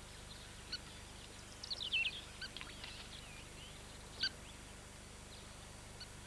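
Birds calling: scattered short, sharp calls, a quick falling run of chirps about two seconds in, and one louder call about four seconds in, over a faint steady hum.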